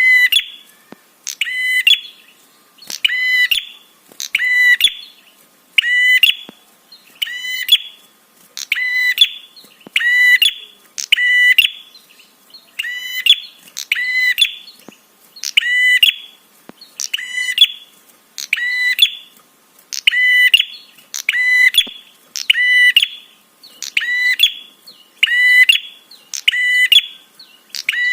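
Prenjak (prinia) 'trapi' call: a short burst of rapid, high, chattering notes repeated at an even pace of about one burst every second and a half, played as a bird-luring recording.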